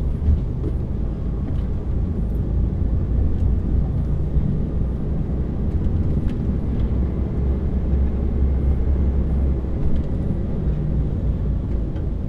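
Lorry's diesel engine running steadily at low speed, a low drone heard from inside the cab, with a few faint light taps.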